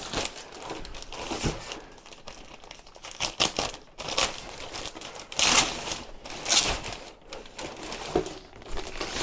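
Plastic packaging bag crinkling and rustling in irregular bursts as a part is pulled out of it.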